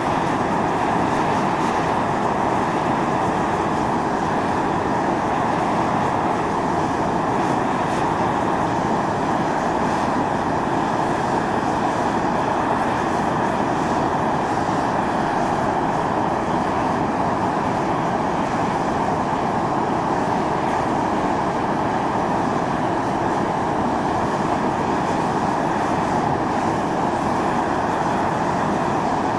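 Steam jetting from a volcanic fumarole on Atosanupuri (Mt. Io): a steady, unbroken hissing rush, strongest in the middle range, that neither rises nor falls.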